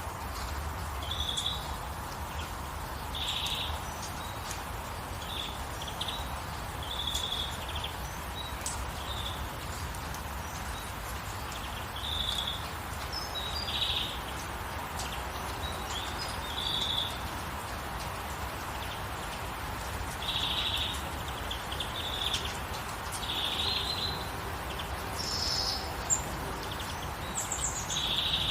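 Birds chirping: short trilled calls at the same high pitch, repeated every second or two, with a few higher calls near the end, over a steady hiss of light rain.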